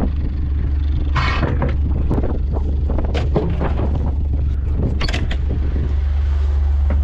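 A vehicle engine running with a steady low rumble, with scattered knocks and rattles and a brief rustle about a second in.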